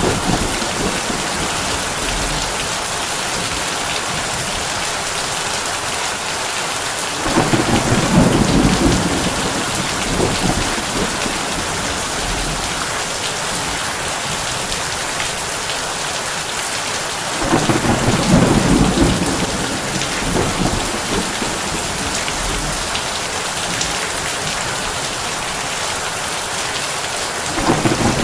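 Heavy rain falling steadily on a tin roof, with low thunder rumbling for a couple of seconds about seven seconds in, again about seventeen seconds in, and once more starting near the end.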